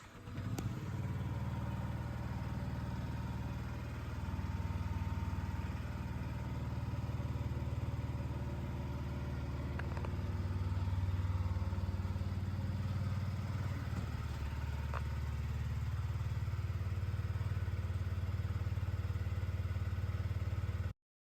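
Yamaha MT125's single-cylinder four-stroke engine catching right at the start and then idling steadily. It cuts off abruptly near the end.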